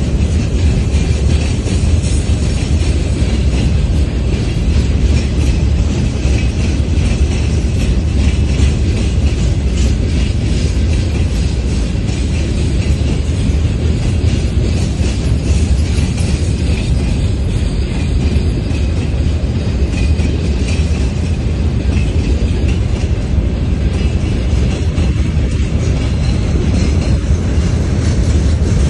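Freight train passing: a steady loud rumble of the train, with the clicking of wheels over the rail joints.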